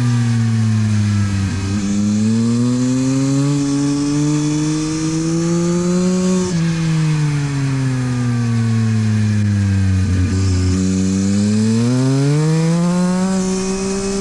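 Yamaha MT-09 SP's three-cylinder engine through a LeoVince exhaust, heard on track. The revs fall off, climb hard to about six and a half seconds in, then drop back slightly and fall away for several seconds. They climb again and hold near the end: the bike is slowing for corners and accelerating out of them.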